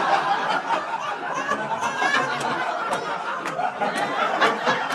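Large audience laughing together, with scattered claps.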